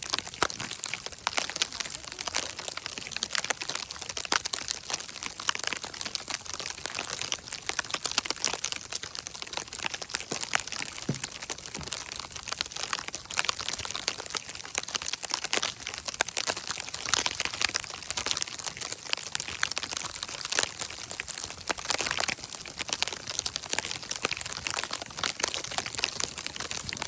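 Sleet and rain pattering down, a dense steady crackle of countless tiny ticks.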